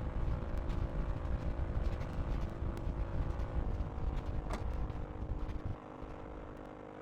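Cessna 172 Skyhawk's piston engine and propeller droning steadily, with a strong low rumble. About six seconds in, the rumble drops away and the drone gets quieter. There is a short click a little before that.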